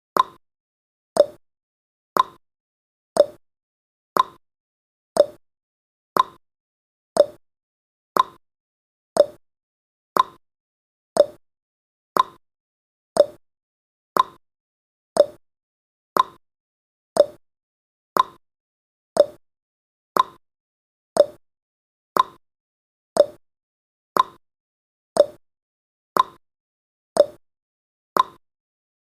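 Countdown timer's tick sound effect: one short, sharp tick every second, evenly spaced.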